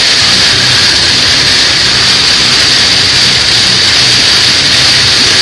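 Heavy rain on the roof and windscreen of a moving car, heard from inside the cabin: a loud, steady hiss with a low engine hum beneath it.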